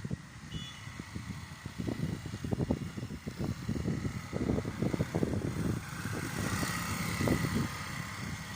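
A motorcycle running, with uneven low rumbling that rises and falls throughout.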